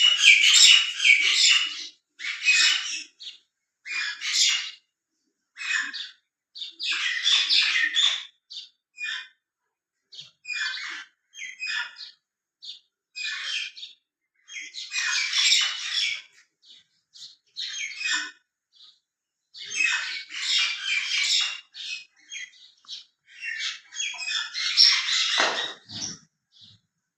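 A group of small birds chirping and squawking together, in bursts of dense chatter with short quiet gaps between. Near the end one sound drops steeply in pitch.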